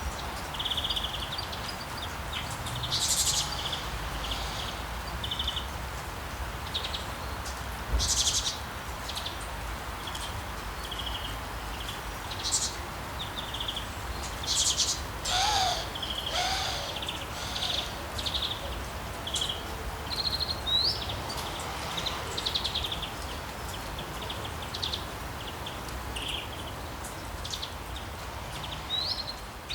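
Several songbirds chirping and trilling in short high calls, with one lower call about halfway through, over a steady wash of sea waves.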